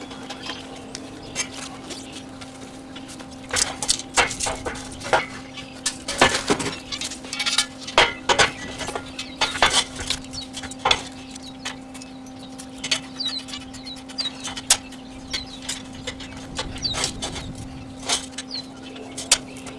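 Irregular metal clanks and taps from work on a steel frame, over a steady hum. The clanks come thickest from about 3 to 11 seconds in and again near the end.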